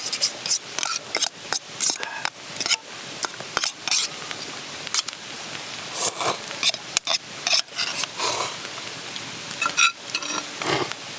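Eating at a camp meal: utensils clicking and scraping against metal cookware in quick, irregular strokes, over the steady rush of a mountain stream.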